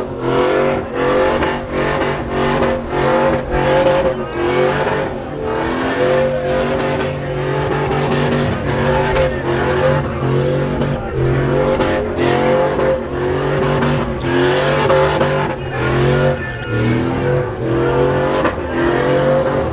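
Car engine revving hard during a burnout, in repeated rising surges about twice a second, with spinning tyres squealing.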